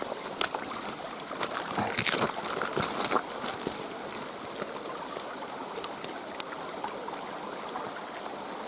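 Swollen woodland creek rushing fast after heavy rain, a steady wash of water noise. A few brief knocks sound over it in the first three seconds.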